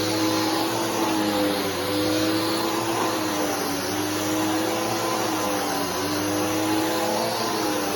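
Bissell PowerForce Helix 3313 upright vacuum cleaner running steadily, its motor pitch sagging slightly about every two seconds.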